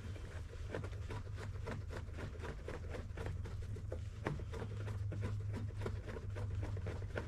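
Light, irregular clicking and tapping of parts and tools being handled, several a second, over a steady low hum.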